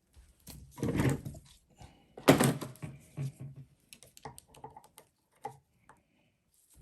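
Hand work on a starter motor being taken apart on a bench: two short scraping, clattering handling noises about a second apart, then a run of small irregular clicks and taps from metal parts and tools.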